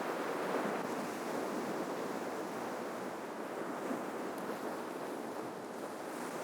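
Ocean surf washing on a shoreline: a steady rushing hiss of waves that eases off slightly as a wash recedes.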